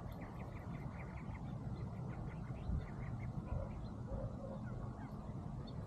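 Faint, rapid short calls from waterbirds, over a low outdoor rumble.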